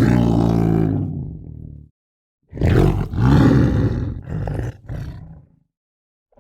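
A large animal roaring twice, loud and deep. The second roar breaks into several shorter grunting pulses.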